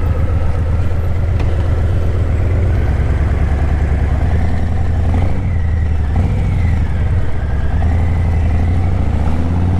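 Harley-Davidson Breakout 117's Milwaukee-Eight 117 V-twin running through a Vance & Hines Eliminator 300 slip-on exhaust while riding. It makes a steady, deep rumble whose pitch rises and falls a few times as the throttle opens and closes.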